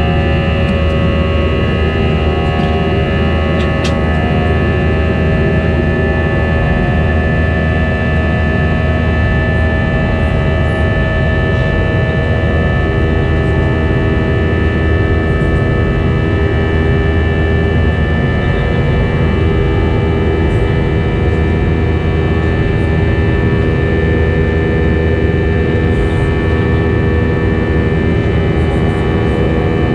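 Airbus A320 jet engines heard from inside the passenger cabin: a steady, loud drone with several held whining tones over a rushing noise. Some of the tones shift slightly about halfway through.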